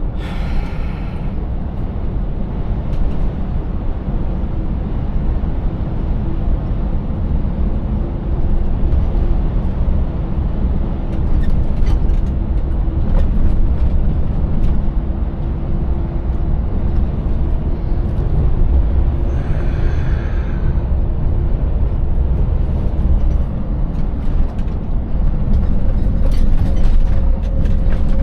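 Scania 590S V8 truck engine running under way, a heavy low rumble with a steady hum that rises in pitch near the end, mixed with scattered light knocks and rattles.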